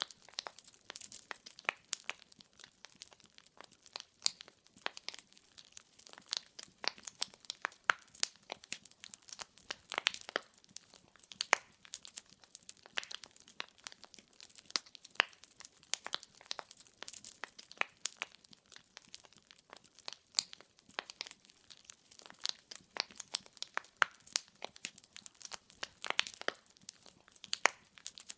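Firewood burning in a fireplace, crackling and popping irregularly, several sharp pops a second over a faint hiss.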